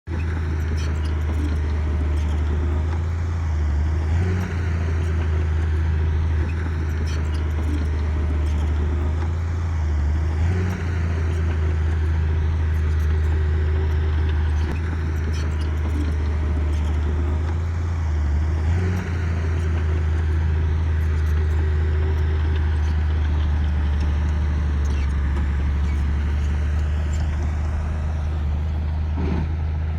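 Diesel engine of heavy construction equipment running steadily under load. Its pitch shifts briefly three times, and faint clicks and clanks sound now and then.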